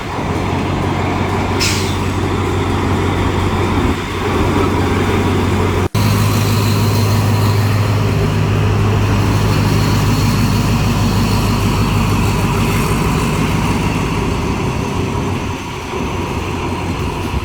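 Diesel locomotive engine running with a steady low hum. The sound breaks off for an instant about six seconds in and comes back louder.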